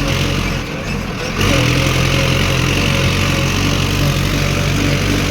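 Mahindra Arjun 555 tractor's diesel engine running steadily under load, pulling a heavily loaded trolley. The engine note dips briefly about a second in, then picks up again.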